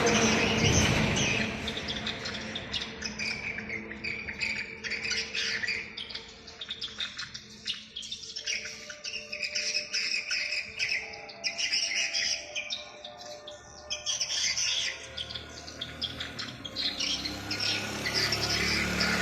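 Swiftlet lure sound: dense, rapid twittering chirps of edible-nest swiftlets, played to attract the birds to a nesting house. A low hum rises under the chirping in the last few seconds.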